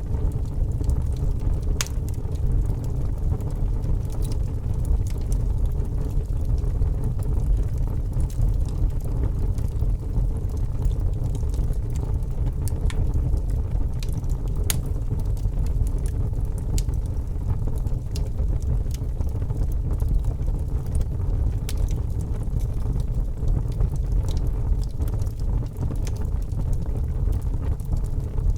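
Logs burning in a fireplace: a steady low rumble with scattered sharp crackles and pops at irregular intervals.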